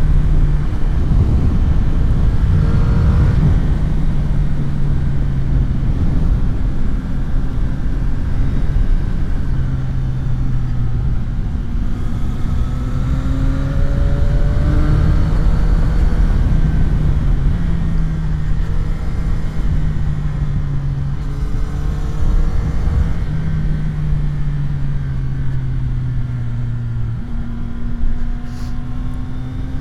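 CFMOTO 675 SR-R inline three-cylinder engine under way on the road, with a heavy low rumble of wind and road noise. The engine note holds for a few seconds at a time and shifts up and down in pitch in steps, as the throttle is rolled on and off and gears change through the bends.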